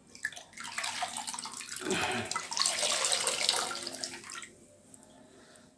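Water splashing and trickling in a bowl for about four seconds as a wet towel is dipped and wrung out, loudest in the middle, then stopping.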